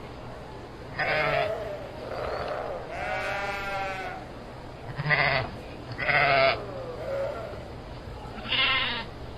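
Sheep bleating: several separate calls, one of them longer and quavering about three seconds in.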